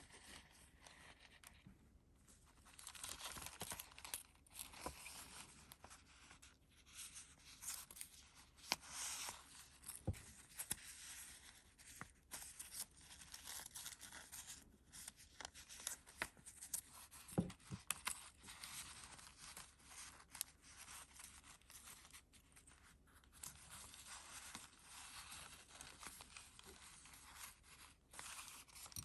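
Paper rustling as the pages of a handmade junk journal are turned and handled, with scattered light taps and flicks.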